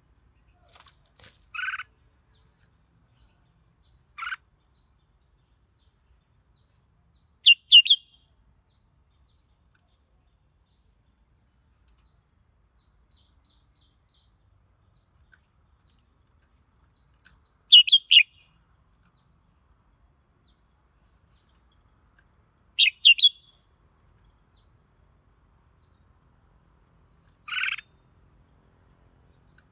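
Red-whiskered bulbul singing short, bright phrases, each under a second, in separate bursts several seconds apart; the loudest are quick two-part phrases.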